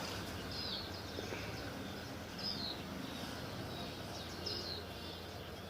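A bird chirping three times, about two seconds apart, each call a short falling note, over a steady hiss of outdoor background noise.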